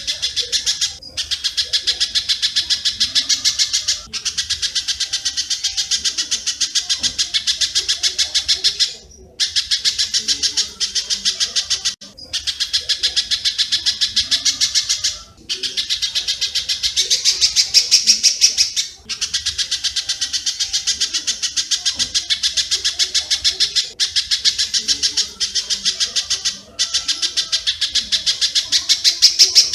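Mastered recording of spiderhunter (pijantung) and swiftlet (walet) calls: a dense, rapid run of high chirps in phrases of a few seconds, broken by short gaps, with faint lower calls underneath.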